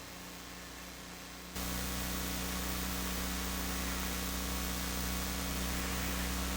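Steady hiss and electrical hum of an old archive recording, with no distinct sound of its own; the hiss and hum step up in level about a second and a half in.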